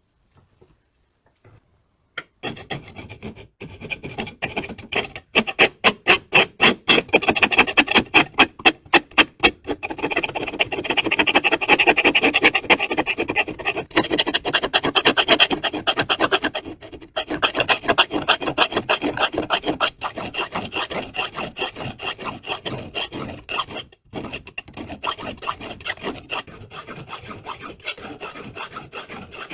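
Hand rasping strokes on a part of the chaff cutter being restored, starting about two seconds in. At first they come as quick, separate back-and-forth strokes, about three a second, then run on as denser, steadier rubbing.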